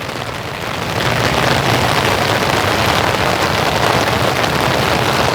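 Steady rain falling and pattering on surfaces, getting louder about a second in.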